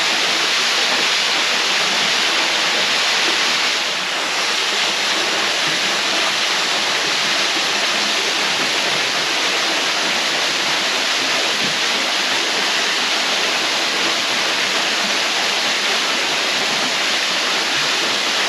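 Steady rushing of a waterfall pouring into a deep pool, a loud even roar of falling water, dipping slightly about four seconds in.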